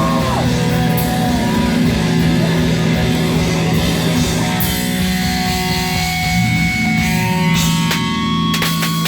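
Live heavy rock band playing loud, led by electric guitars holding sustained notes over drums.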